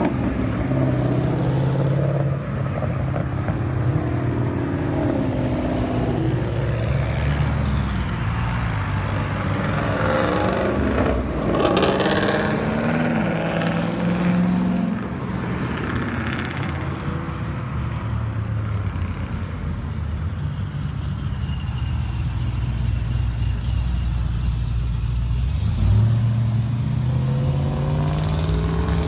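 Car engines running, with revs rising and falling around the middle.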